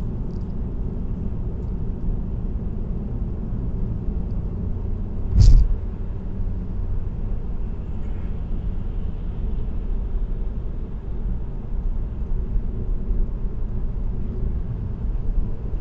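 Steady low hum of a car's tyres and road noise on an expressway, heard from inside the car. A single short, louder burst comes about five and a half seconds in.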